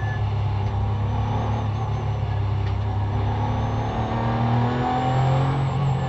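Porsche GT3 race car's flat-six engine heard from inside the cockpit, running under throttle at around 4,000–5,000 rpm through a corner. The revs rise a little toward the end.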